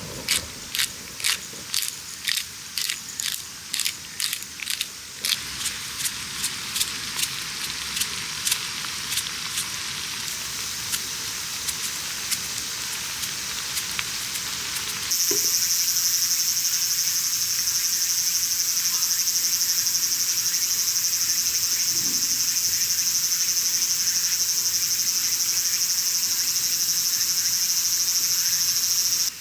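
A run of sharp, regular clicks, about two a second, fades away over the first ten seconds. About halfway a louder, steady, high-pitched insect chorus of crickets or cicadas sets in and holds.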